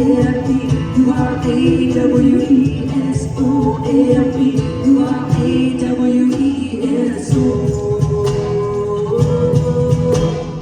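Live band performance of a pop song, with voices singing over the band and quick, steady percussion hits.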